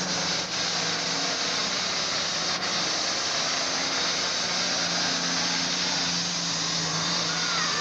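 Super farm pulling tractor's diesel engine running hard under load as it pulls the sled, a steady loud drone with a strong hiss over it. Its pitch drops slightly about five seconds in.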